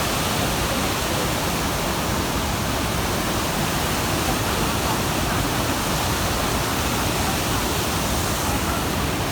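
Steady, loud rush of the Iguaçu Falls' falling water, heard close up.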